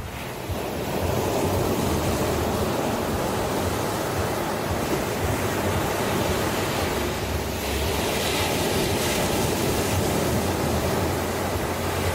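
Ocean surf: waves washing and breaking in a continuous rushing noise. It swells about a second in, and a brighter hiss of a breaking wave comes about eight seconds in.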